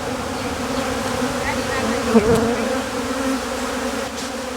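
Honey bees from a disturbed colony buzzing in a steady, dense hum. About two seconds in, one bee passes close with a brief wavering of pitch.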